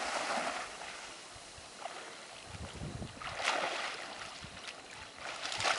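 Waves washing on the shore, with brief louder rushes about midway and near the end.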